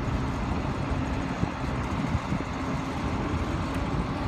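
Steady mechanical drone with a low hum and an uneven rumble underneath, typical of machinery running on a heliport ramp.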